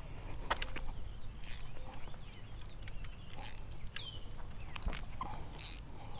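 Wind rumbling on the microphone, with scattered clicks and short rustles, and one short falling bird-like whistle about four seconds in.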